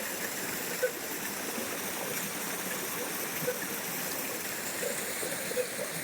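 Steady rush of water from a small waterfall and its stream, with a few short pips heard over it.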